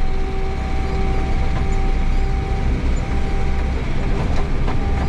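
JCB 3CX backhoe loader's diesel engine running steadily under way, heard from inside the cab, with a heavy low rumble and drivetrain noise. A few light clicks come through near the end.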